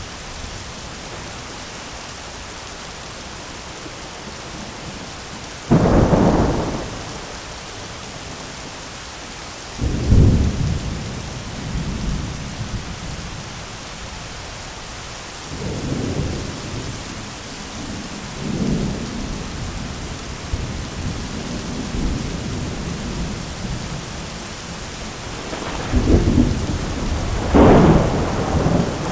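Thunderstorm: steady rain falling throughout, with rolls of thunder. A sudden loud thunderclap comes about six seconds in and another around ten seconds. Lower rumbles follow, then a loud burst of repeated thunder near the end.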